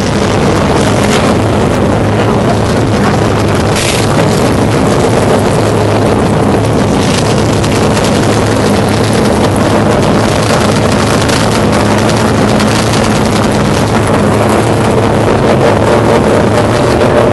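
Race car engine idling steadily, loud and close.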